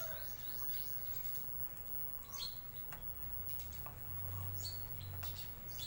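Scattered high bird chirps, a quick falling run at the start and then a few short chirps, over a low steady hum.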